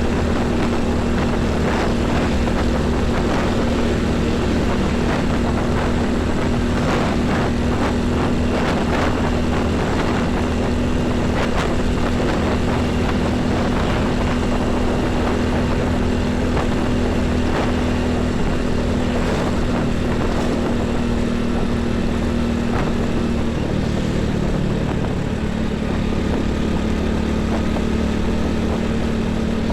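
Heavy highway traffic of trucks and buses, with a steady engine hum at one pitch that steps slightly lower about 24 seconds in.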